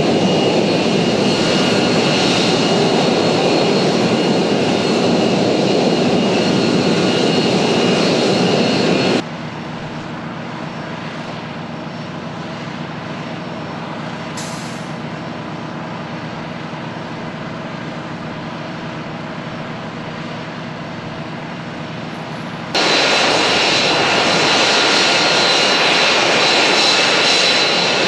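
F-35B's Pratt & Whitney F135 jet engine running at high power in STOVL hover configuration, a loud steady roar. About nine seconds in it drops abruptly to a much quieter steady hum with several steady tones, and the loud roar returns just as abruptly about 23 seconds in.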